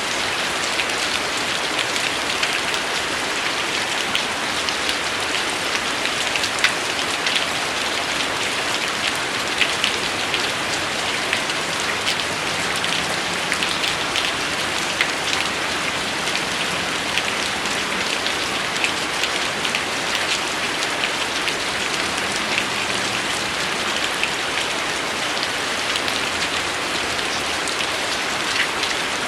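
Steady rain falling: an even hiss with many separate drops hitting close by, all through.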